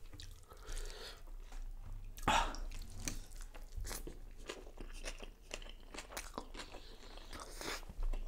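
Close-miked chewing with crisp crunches, a person eating a mouthful of food, with one louder crunch about two seconds in.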